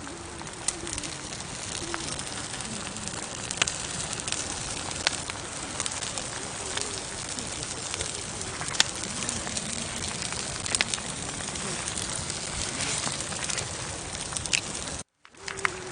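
Campfire burning: a steady hiss with scattered sharp crackles and pops at irregular intervals.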